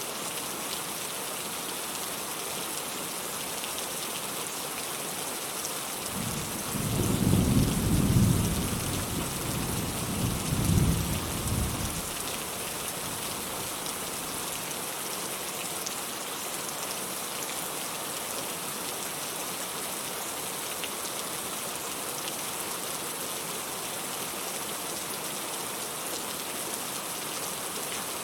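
Steady rain falling. About six seconds in, a low roll of thunder swells, peaks twice and dies away after about six seconds.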